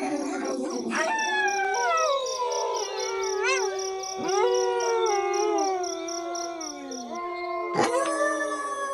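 A pack of wolves howling in chorus: several long howls overlap, each sliding up and down in pitch. A rapid, even, high-pitched pulsing runs underneath.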